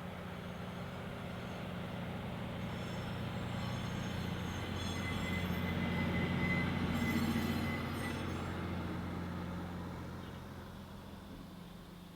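Sugar cane train passing: the diesel locomotive's engine hum and the wagons' running noise build to a peak about halfway through, then fade away. A high wheel squeal from the rails sounds in the middle of the pass.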